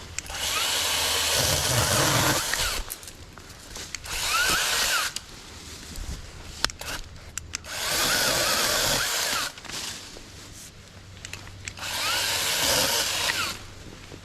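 Saker 20-volt cordless mini chainsaw running in four bursts of a second or two each, its pitch dipping and rising as it cuts through tree limbs.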